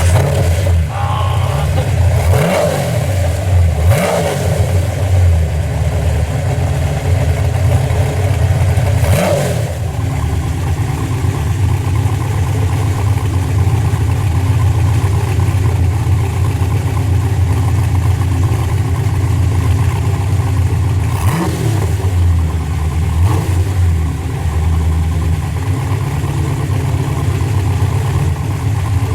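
Saleen S7 Competition's V8 idling with a steady lumpy rumble, blipped up and straight back down about five times: a couple of quick revs in the first few seconds, another near the end of the first third, and two more about two-thirds of the way through.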